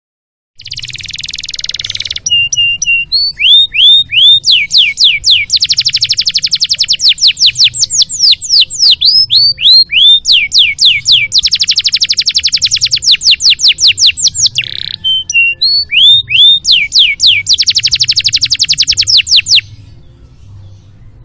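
Domestic canary singing a long, loud song: a buzzy trill at the start, then repeated falling whistles alternating with long, very rapid trills. The song stops near the end, leaving only a faint trace.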